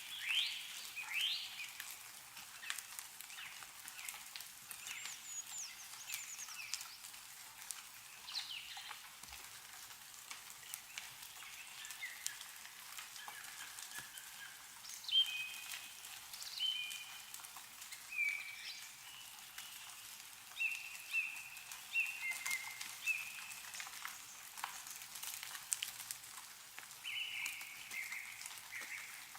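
Meltwater dripping from snow-covered trees, many small scattered drips, with birds calling in short chirping notes, repeated more often in the second half.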